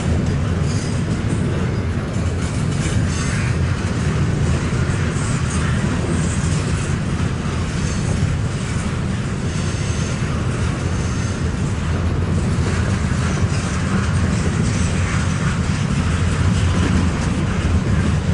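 Double-stack intermodal freight train rolling past on its container well cars: a steady, loud low rumble of steel wheels on the rails, with scattered light clicks.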